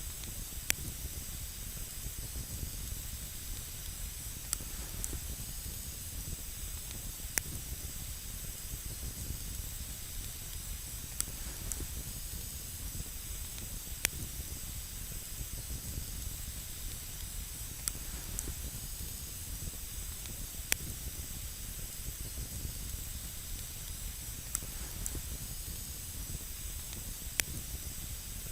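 Campfire burning: a steady hiss with single sharp crackling pops every three to four seconds, about nine in all.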